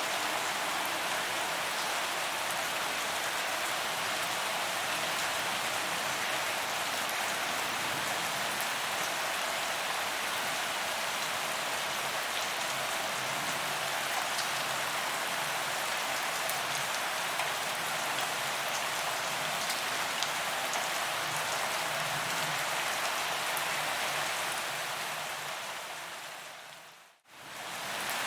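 Steady rain falling on a paved promenade, a dense hiss of drops with fine individual patters. Near the end it fades out to silence for a moment and then fades back in, like an edit joining two recordings.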